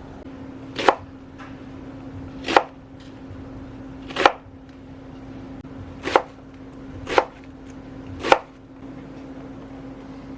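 Knife chopping on a cutting board: six separate strokes, unevenly spaced one to two seconds apart, over a steady low hum.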